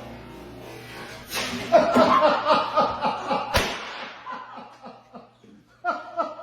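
People laughing in repeated bursts, with a single sharp pop about three and a half seconds in.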